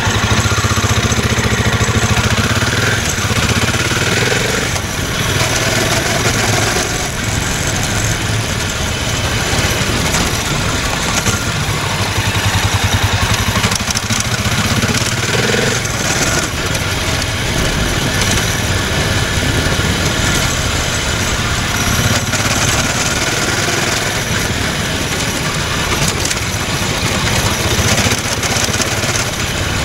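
Bimota BB1 Supermono's single-cylinder engine running as the motorcycle is ridden over a bumpy road, heard close up from beside the rear shock, under a steady rush of wind and road noise.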